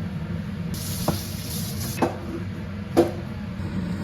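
Three sharp knocks about a second apart, the last the loudest, over a steady low hum.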